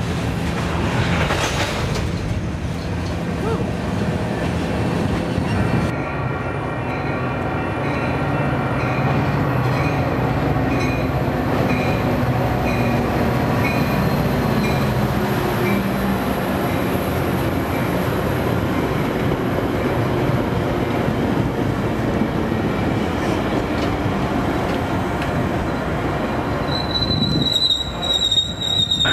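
A freight train of tank cars rolling past, then a Metra commuter train led by a diesel locomotive passing close by, its engine running under the steady noise of the wheels on the rails. Near the end a high wheel squeal sounds as the bilevel coaches go by.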